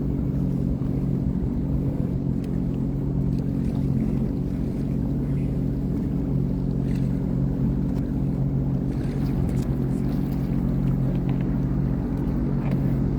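2023 Sea-Doo Fish Pro personal watercraft's engine running at a steady pitch, a constant low hum with no change in speed.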